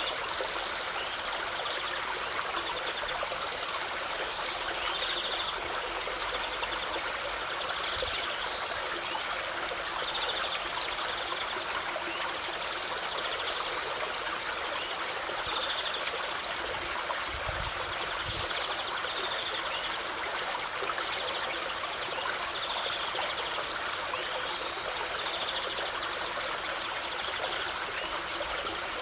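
River water flowing over rocks, a steady rushing and trickling, with a faint high-pitched sound recurring every two to three seconds.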